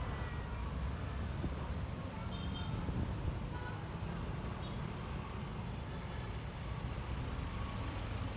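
Steady low rumble of riding a Honda ADV 150 scooter in traffic: engine and road noise with wind on the phone's microphone. A faint short beep comes about two and a half seconds in.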